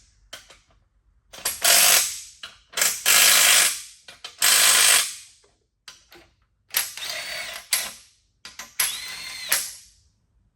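A powered ratchet or impact-type tool running bolts down, most likely the main bearing cap bolts on an ISX diesel block. It goes in about five separate one-second bursts with short pauses between them, and the motor's pitch rises and falls within some of the bursts.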